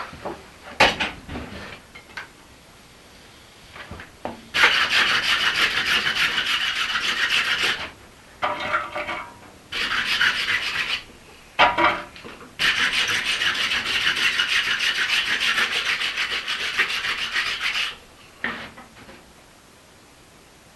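Rapid back-and-forth scraping of a hand tool over the forged steel axe head, in four spells, the last about five seconds long, with a couple of short knocks between them.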